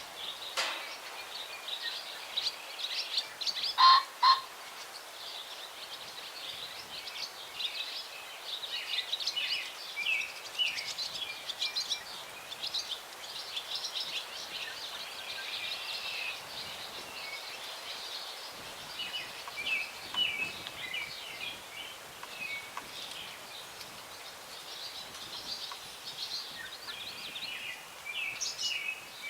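Many songbirds chirping and singing without pause. About four seconds in comes a loud, harsh two-note call, the crow of a cock ring-necked pheasant.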